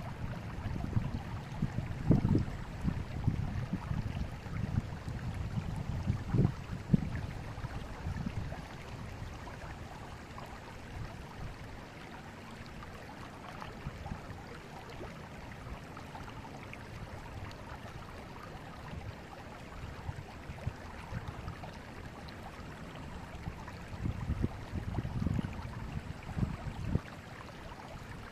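Forest river flowing, a steady wash of running water with uneven low surges in the first several seconds and again near the end.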